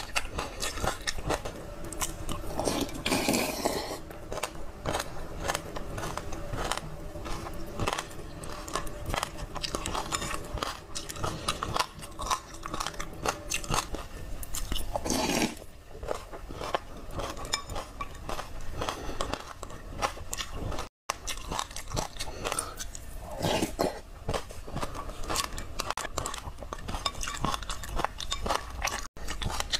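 Close-miked chewing and crunching of a mouthful of small hard grains mixed with passion fruit pulp: dense, irregular crackly crunches. The sound drops out for an instant twice near the end.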